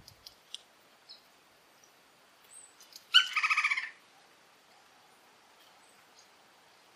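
Red-crowned woodpecker giving one loud, fast rattling call, about a second long, a few seconds in. Faint short chirps are heard before it.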